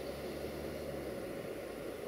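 Distant freight train of tank wagons rolling away, a steady rumble, with the low hum of the hauling LDE2100 (060-DA) diesel locomotive that fades out a little over a second in.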